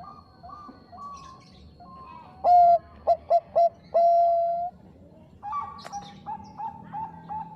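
Zebra dove (Bangkok perkutut) cooing: a faint quick run of short coos, then in the middle a loud phrase of a few clipped notes ending in one long held coo, followed by another quick series of short coos.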